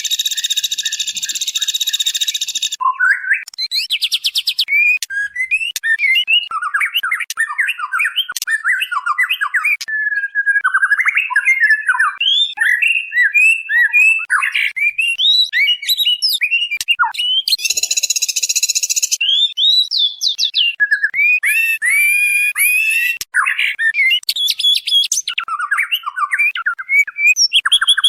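White-rumped shama (murai batu) singing fast, varied whistled and chattering phrases, cut by harsh rasping buzzes near the start, about 18 seconds in and about 22 seconds in. It is billed as a female calling to a male.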